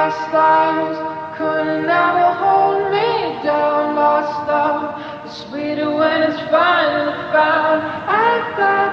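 Background music: a woman's voice singing a melody in long held notes that bend in pitch, starting abruptly.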